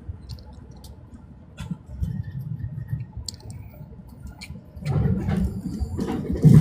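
Commuter train running noise heard inside the carriage: a low rumble with scattered clicks and rattles as the train nears a station, growing louder about five seconds in.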